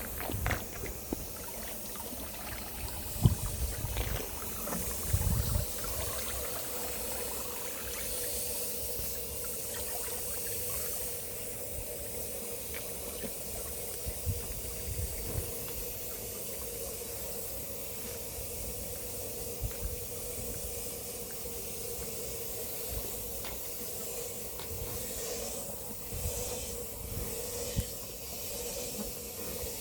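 Steady outdoor background hiss with a faint steady hum under it. A few low thuds come in the first six seconds, the sharpest about three seconds in.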